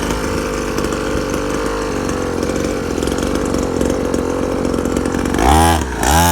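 Syx Moto Holeshot 50cc dirt bike's small engine running steadily at idle, then near the end blipped twice in quick succession, its pitch rising and falling with each twist of the throttle.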